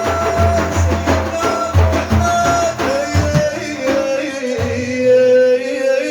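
Religious praise singing: a male voice sings long, wavering melismatic notes over a beat of drums. The drums are heavy for the first three seconds, then fall back while the voice holds one long note.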